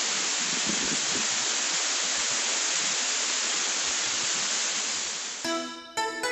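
Steady rush of a waterfall's falling water, an even hiss without change; about five seconds in it fades as music comes in.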